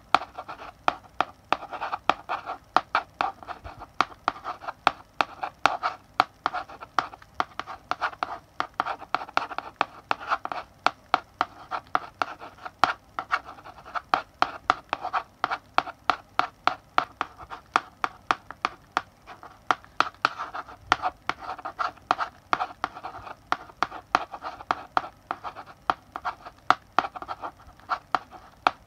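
Chalk writing on a blackboard: an irregular run of sharp taps and short scratchy strokes, a few each second, going on without a pause.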